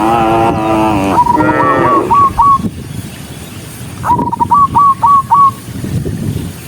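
Cattle mooing: a long low moo opens, with a second shorter one soon after. Two runs of four or five short whistle-like notes come between the moos.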